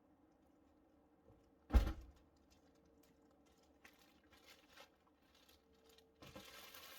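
A single loud thump about two seconds in, followed by a few faint clicks and, near the end, a stretch of rustling.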